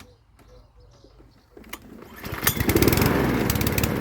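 Mountfield SP185 lawnmower being pull-started: after a click about two seconds in, the engine cranks over with a fast, even pulsing but does not fire. The owner puts the no-start down to stale, dirty petrol.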